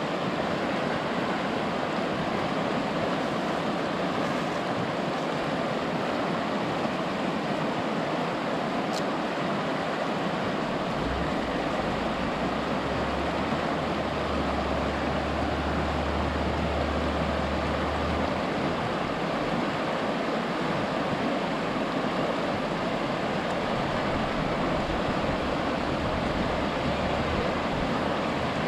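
A river flowing, a steady even rush of water, with a faint low hum for several seconds in the middle.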